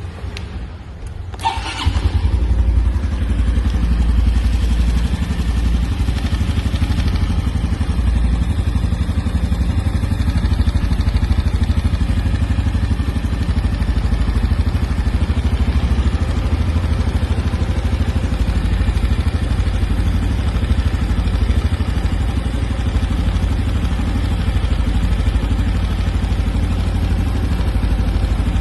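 Honda Biz 125 motorcycle's single-cylinder engine starting about a second and a half in, then running steadily at idle. The owner flags this engine as making an abnormal noise.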